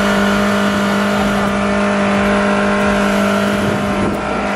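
Toyota Camry engine held at high revs, a loud steady drone that does not change pitch. It is being run hard with its oil drained, to see how long it lasts.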